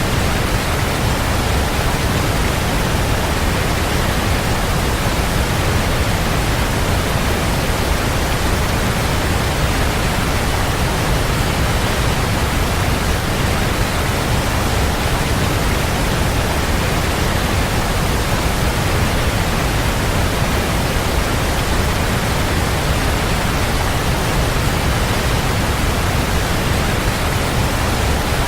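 Waterfall: water falling and splashing in a steady, even rush, heaviest in the low end.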